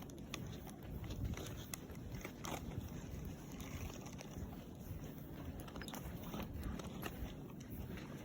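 Footsteps crunching through deep fresh snow, irregular crunches over a low rumble.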